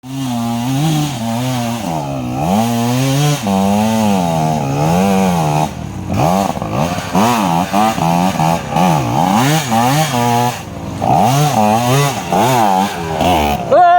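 Small dirt-bike engine revved again and again, its pitch rising and falling with the throttle. It swells slowly through the first half, then gives quicker, shorter blips from about six seconds in.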